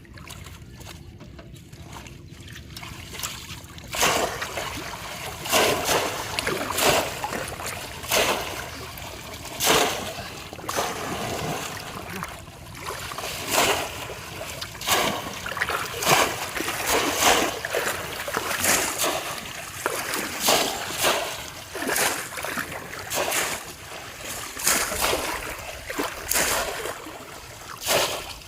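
Splashing in shallow river water. It is quiet at first, then about four seconds in comes a run of irregular sharp splashes, one or two a second.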